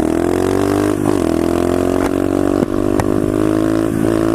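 SSR 125cc pit bike's single-cylinder four-stroke engine pulling away, its pitch rising over the first second and then holding, with a couple of short dips. A few sharp clicks come in the middle.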